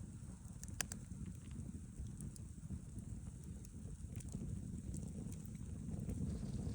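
Campfire burning: a low steady rumble of flames with scattered sharp crackles and pops, the loudest about a second in.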